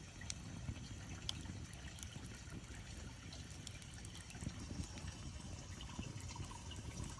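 Campfire burning with whole green onions (negi) roasting in the flames: a steady low rumble with scattered sharp crackles.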